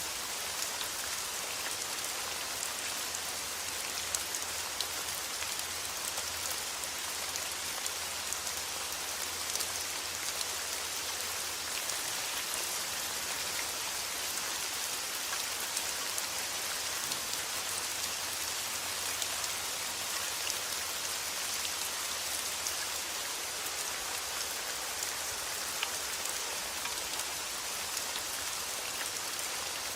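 Steady rain: an even hiss with many small individual drop ticks scattered through it.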